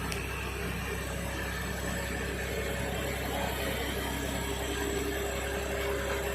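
Engine of heavy machinery running steadily, a constant hum with no change in speed.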